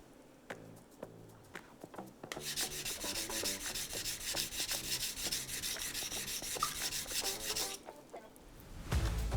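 Steel blade of a thin honyaki fugu-hiki knife scraping back and forth on a wet whetstone in rapid, even sharpening strokes. The strokes start about two seconds in and stop shortly before the end.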